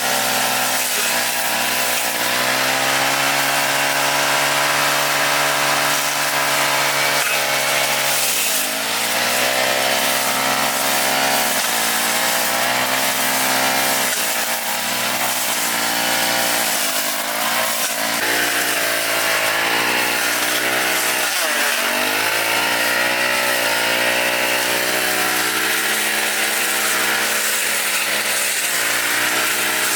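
Small petrol engine of a grass cutter running at high speed, its pitch dipping briefly a few times as it bogs down cutting into the grass.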